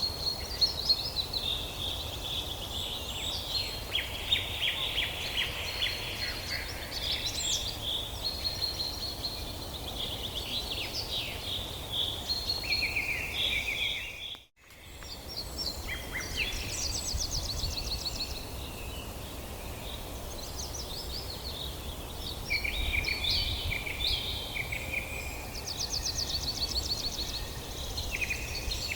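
Several songbirds singing and calling together, with short chirps and rapid trills overlapping one another, over a faint low steady background. The sound drops out briefly about halfway through.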